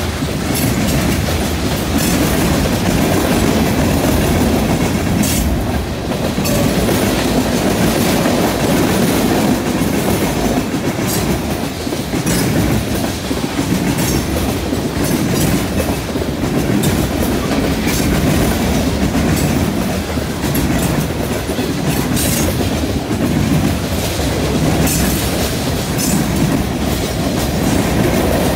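Freight train cars (covered hoppers, tank cars and boxcars) rolling past at speed. A steady loud rumble with irregular sharp wheel clacks on the rails.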